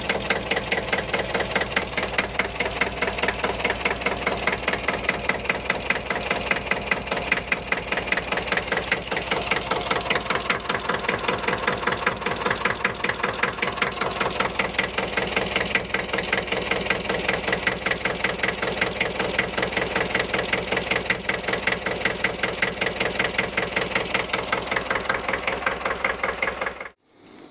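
Deutz D30 tractor's 812-series air-cooled three-cylinder diesel idling with a steady, even knocking beat; the owner has said something about it sounds strange. It cuts off abruptly near the end.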